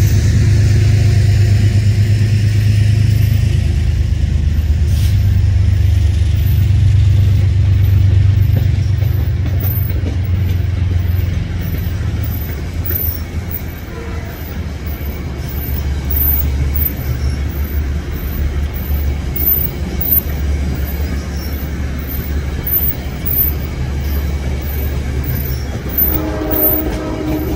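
Metro-North M8 electric multiple-unit train rolling slowly past, with a steady low hum. Near the end a pitched sound with several overtones comes in.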